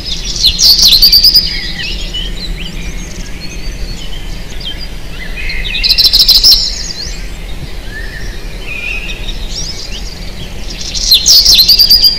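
Birds chirping and singing, with a loud burst of rapid chirps about a second in, another around the middle and another near the end, over a steady low hum.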